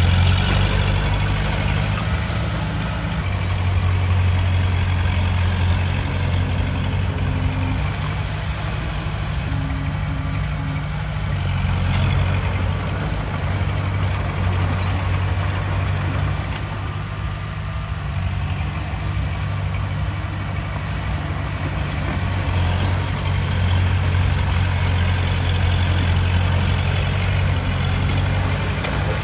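Heavy diesel engine of earthmoving machinery running continuously, its low note swelling and easing every few seconds as it works under changing load.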